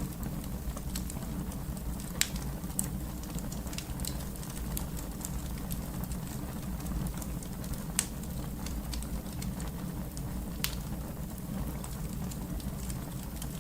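Wood fire crackling: a steady low rumble of burning with scattered sharp pops and snaps, the loudest about 2, 8 and 10½ seconds in.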